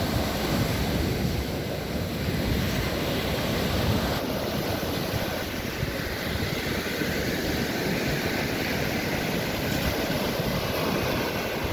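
Wind buffeting the microphone over steady surf on an open beach, a continuous rushing noise with a heavy low rumble.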